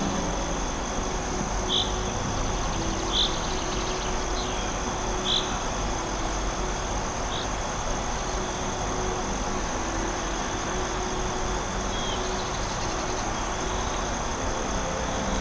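Forest ambience: a steady high insect drone over an even background hiss, with about five short high chirps in the first half.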